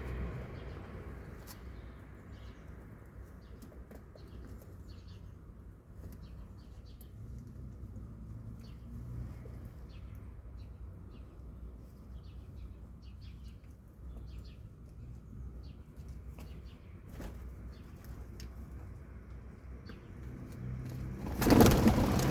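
Short, high bird chirps scattered over a steady low city rumble, with a loud rushing noise setting in near the end.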